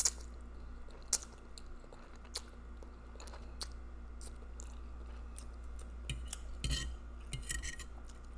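Close-miked eating sounds: a mouthful of spaghetti sucked in, then chewed with scattered wet mouth clicks. Near the end a metal fork scrapes and twirls on a ceramic plate.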